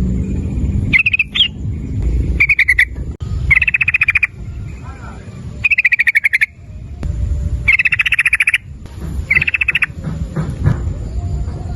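Yellow-vented bulbul (trucukan) calling in short bursts of rapid bubbling notes, about six bursts a second or two apart, over a low rumble.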